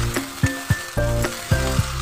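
Sticky rice sizzling as it is fried and stirred with a metal spatula in a metal wok, over background music with a steady beat.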